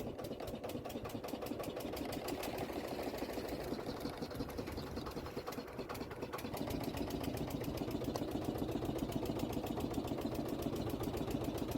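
A small engine running steadily with a fast, even firing beat.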